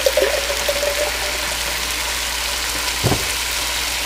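A pot of sautéed vegetables, sausage and rice sizzling steadily as broth and salsa go in, with a brief gurgle of pouring liquid in the first second and a dull knock about three seconds in.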